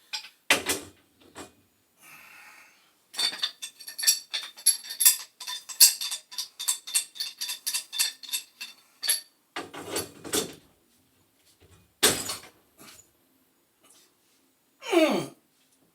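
Metal hand tools clicking and clinking against a gas fitting as it is threaded and tightened: a few knocks, then a quick run of sharp ringing clicks for several seconds, more knocks, and near the end a short sound that drops steeply in pitch.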